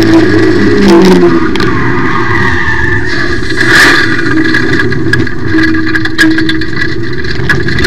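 Loud run of a Mk1 Mazda MX-5's four-cylinder engine at high revs under hard acceleration, heard from inside the open-topped cockpit, with wind rush and rattling clicks over it.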